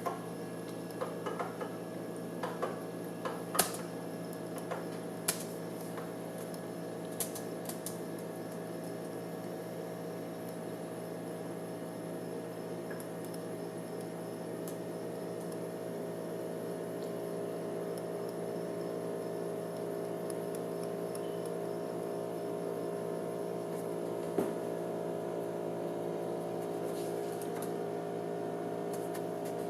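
Hand-spun gyroscope whirring steadily with a low hum of several tones, growing slightly louder about halfway through. A few sharp clicks come in the first several seconds and one more near the end.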